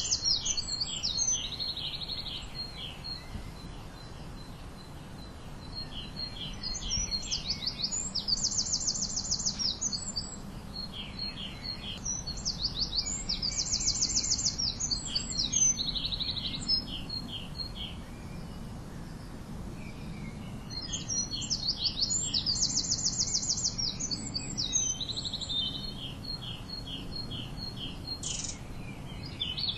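Songbirds singing: short phrases of fast, high trills and chirps repeated every few seconds, over a faint low background noise.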